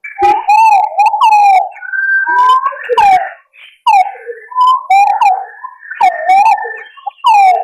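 Green pigeons (punai) calling: a string of wavering, bending whistled notes mixed with short high chirps, broken by one brief pause partway through.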